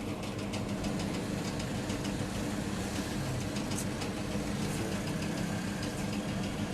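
A motor running steadily with an even low hum, while rain falls in scattered sharp ticks.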